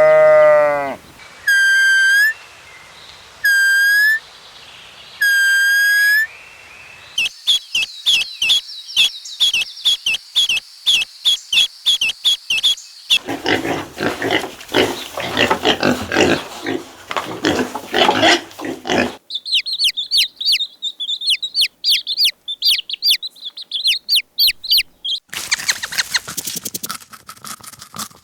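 Several different animal calls, one clip after another: three short hooked high calls, then rapid clicking with high chirps, a stretch of dense repeated pulses, and more high chirping.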